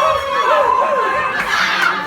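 Several voices at once, a mix of chattering and laughter from a group of people, with no single clear speaker.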